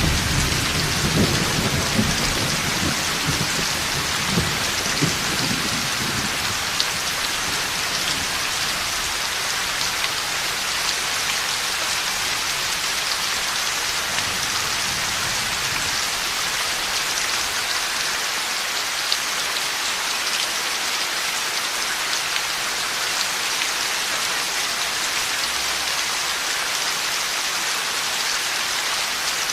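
Heavy rain falling steadily, with thunder rumbling during the first few seconds and then dying away.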